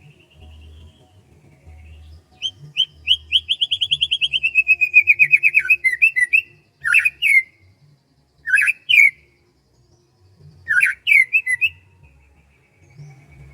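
A bird singing: a rapid trill of repeated notes that falls slightly in pitch over about four seconds. It is followed by three short bursts of two or three sharp notes.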